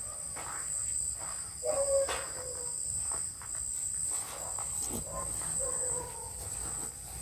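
A steady, high-pitched chorus of night insects, with a few faint short knocks mixed in.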